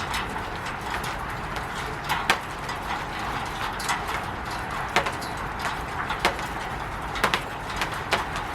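Rain falling on a roof: a steady hiss of many small drops, with scattered louder taps of heavier drops landing at irregular moments.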